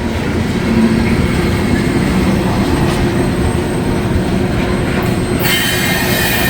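Coal train's freight cars rolling past with a steady rumble of wheels on rail. About five seconds in, a high, many-toned wheel squeal sets in over the rumble.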